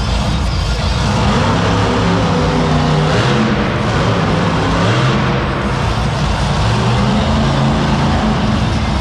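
Monster truck's supercharged V8 running loud in an arena, its pitch rising and falling several times as the throttle is worked.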